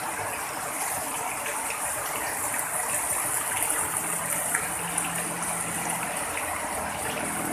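Heavy rain pouring down, a steady hiss, with a faint low hum joining about halfway.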